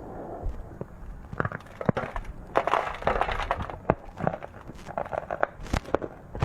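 Close-up chewing of hard, crunchy chocolate sweets: irregular crisp crunches and crackles, densest about two and a half seconds in and again near the end.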